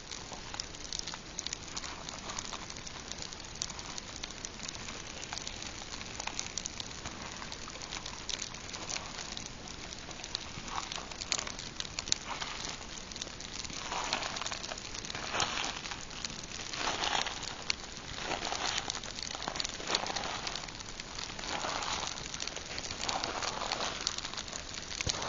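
Pine campfire crackling and snapping with dense sharp pops throughout. From about halfway through, small waves lap against the rocky shore in soft, regular washes about every second and a half.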